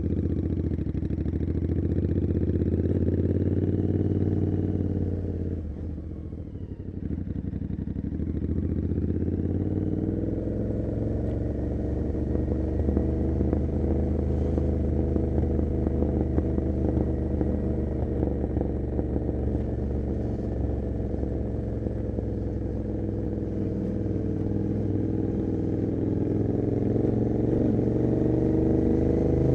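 Royal Enfield Continental GT 650's parallel-twin engine running through an Emgo cafe muffler with the dB killer removed, heard on board while riding. The engine note eases off and goes quieter about six seconds in, then pulls back up and holds steady, rising again near the end.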